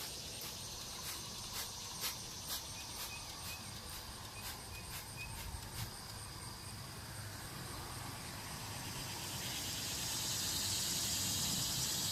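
Soapy water being sprayed over an engine bay in short spritzes, about two a second, then a steadier hiss that builds and grows louder toward the end. A faint, evenly pulsing high chirp, like crickets, runs underneath.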